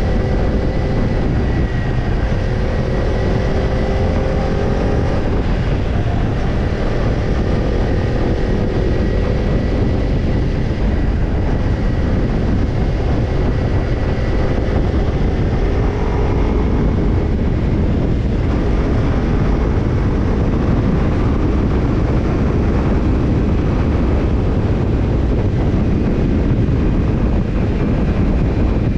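Kawasaki Ninja 250 parallel-twin with a BEET NASSERT Evolution Type II titanium slip-on muffler running at a fairly steady cruise, its exhaust note drifting slowly in pitch under heavy wind and road rush.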